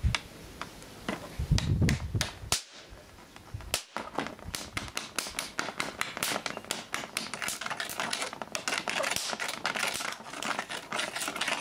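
Electrical arcing from a charged capacitor bank being discharged into circuit-board components: rapid, irregular crackling snaps at several a second from about four seconds in, after a short low thump about a second and a half in.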